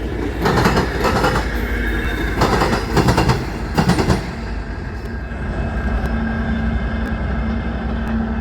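Passing train's wheels clattering over rail joints and the crossing diamond in quick loud groups, then settling about four seconds in to a steady rolling rumble with a low hum.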